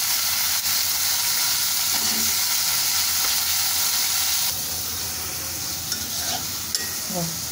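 Chicken and sliced onion sizzling in hot oil in a metal karahi, stirred with a spatula; the hiss eases a little about halfway through.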